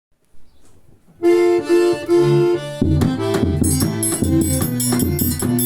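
Forró accordion (sanfona) intro: three held chords about a second in, then, about three seconds in, the band enters with bass notes and a fast, steady high percussion beat under a running accordion melody.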